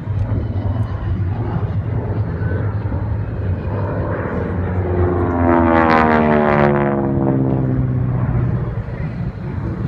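Propeller airplane flying past, its engine note falling in pitch as it goes by, loudest about six seconds in, over a steady low engine hum.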